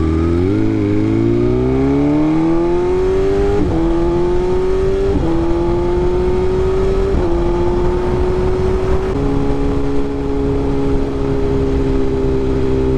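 BMW S1000RR inline-four engine heard from the rider's seat, accelerating and shifting up through the gears. Four quick upshifts each bring a brief dip in pitch, then the engine holds a steady pitch for the last few seconds, with steady wind and road noise underneath.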